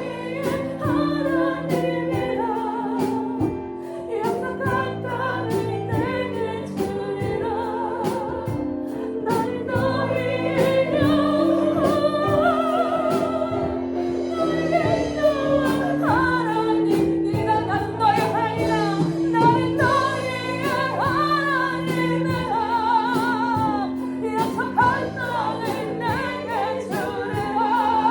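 Christian worship song: singing over a band, with sustained notes and a steady drum beat.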